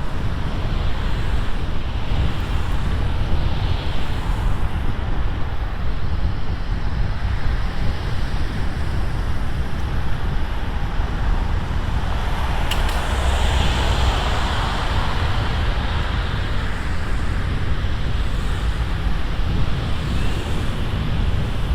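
Wind rumbling steadily on the microphone of a bicycle-mounted camera while riding, with road noise from the street; the noise swells briefly about two-thirds of the way through.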